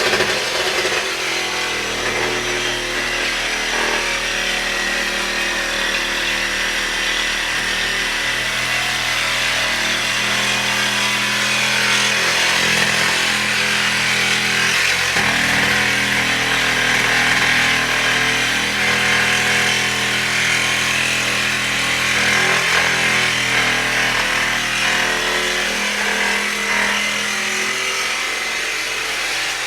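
Power saw running continuously, cutting through a steel steering column tube stuck in a car chassis.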